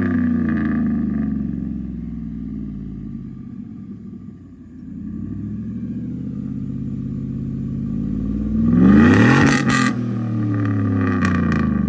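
Straight-piped 2016 Chevrolet Silverado 5.3-litre V8, with no catalytic converters, muffler or resonator, its revs falling from a blip to a low idle, then revved sharply once about nine seconds in and dropping back. Pretty damn loud.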